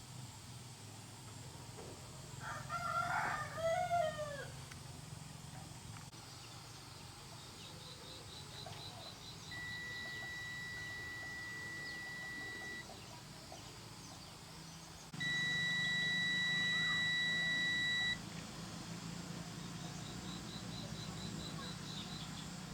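A rooster crows once about three seconds in. Later come two long, steady, high-pitched beeps, each about three seconds, the second louder. A low hum and faint insect trilling run underneath.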